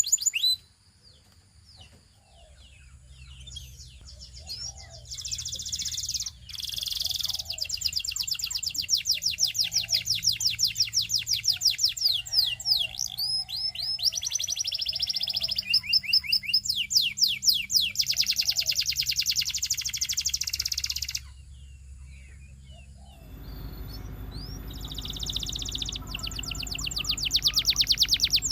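Canary singing: long runs of fast, rapidly repeated high trill notes, with a short pause just after the start and another shortly before the end before the song resumes. A faint low hum lies underneath.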